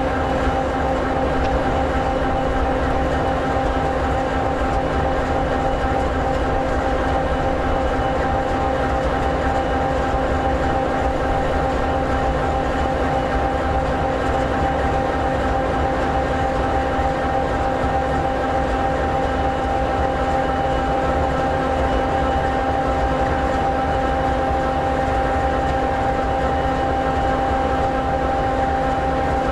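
EMD 16-710G3B two-stroke V16 diesel of an SD60E locomotive idling steadily: a low rumble under an even hum of several tones.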